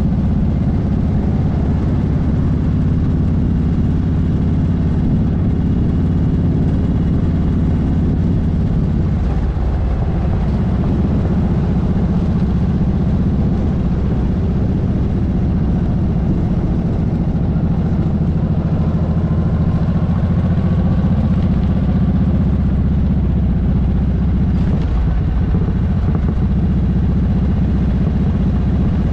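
Motorcycle engine running steadily at road speed, its note shifting briefly about ten seconds in and again near the end.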